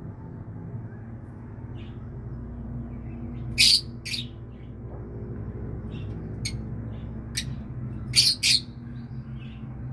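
A bird giving short, sharp calls: a loud pair about a third of the way in and another pair near the end, with a few fainter single notes between.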